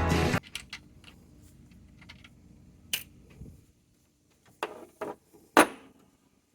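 Background music stops about half a second in. Then come a few sharp, scattered metallic clicks and clinks of hand tools and metal parts being handled while an oscilloscope's chassis is taken apart, the loudest near the end.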